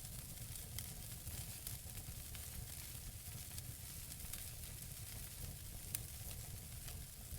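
Wood fire burning in a fireplace: a soft steady hiss and low rumble with scattered small crackles from the burning logs. One sharper pop comes about six seconds in.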